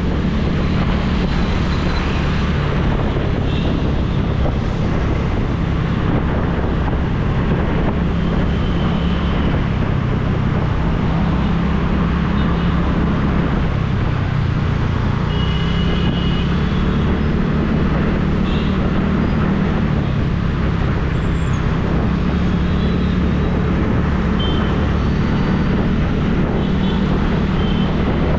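TVS Ntorq scooter's single-cylinder 125 cc engine running steadily while riding, mixed with road and street-traffic noise. A few brief high tones sound now and then.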